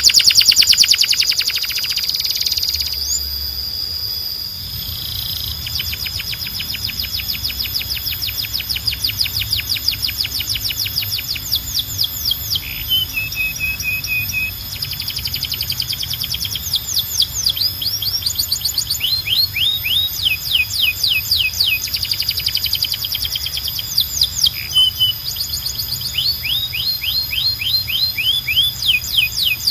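Domestic canary singing a long, continuous song of fast trills, each phrase a rapid run of repeated sweeping notes that changes to a new trill every few seconds, with short lower rolling phrases about 13 seconds and 25 seconds in.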